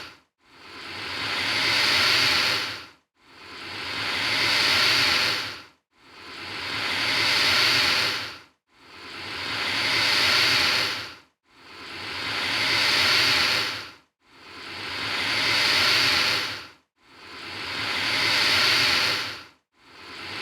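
American alligator hissing: a run of alike breathy hisses at an even pace, about one every three seconds, each swelling and then cutting off abruptly.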